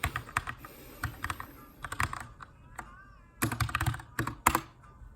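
Typing on a Keychron K2 mechanical keyboard with brown tactile switches in an aluminium frame: irregular keystrokes with short pauses, then a quick flurry of keys a little past the middle.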